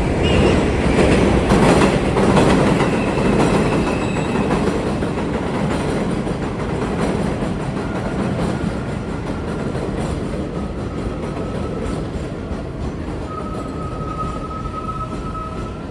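New York City 7 train running on the elevated steel track overhead, a loud rumble that peaks in the first few seconds and slowly fades as it moves away. A faint high wheel squeal comes in near the end.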